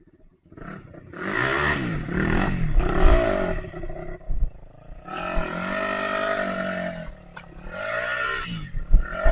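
Trail motorcycle engine revving up and down several times, with a short drop in revs twice between the pulls.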